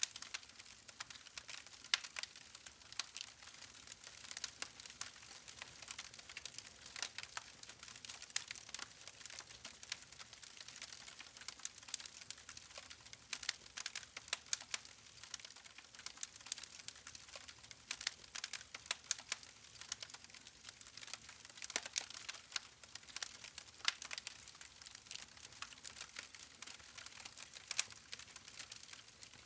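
Campfire logs crackling: a continuous irregular patter of small sharp snaps, with a few louder pops scattered through.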